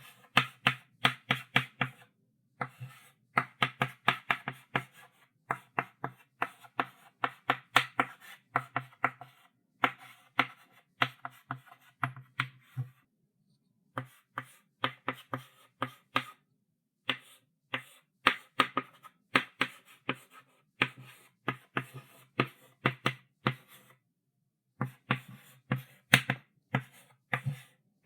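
Chalk writing on a chalkboard: quick taps and short strokes of the chalk, several a second, in runs of a second or more with brief pauses between.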